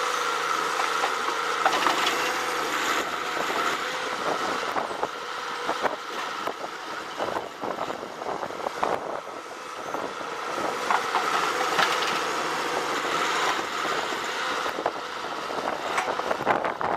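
Engine of a tree-felling machine running steadily, with many scattered sharp cracks and snaps; the level dips briefly about halfway through.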